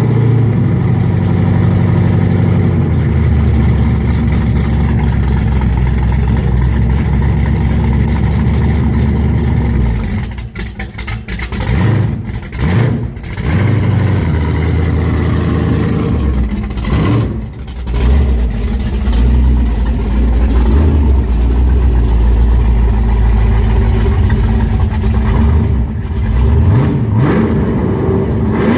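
1968 Ford Mustang's 302 small-block V8 running on a cold start: a steady, loud idle that dips briefly a few times midway, with the pitch rising as it is revved near the end.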